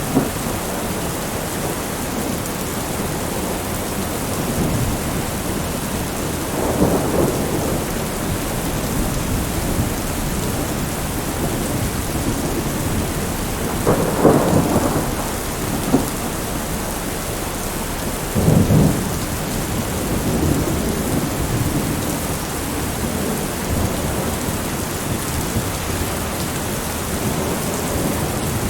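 Heavy rain falling steadily, with thunder rumbling several times, the strongest rolls about 7, 14 and 18 seconds in.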